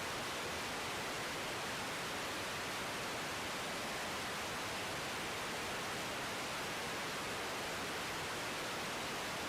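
Steady, even hiss like static, unchanging throughout, with no engine tones or other events standing out.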